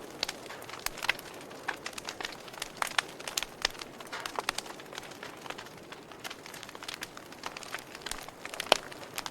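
Wood fire crackling in a fireplace: irregular sharp pops and snaps, several a second, over a steady soft hiss, with one louder pop near the end.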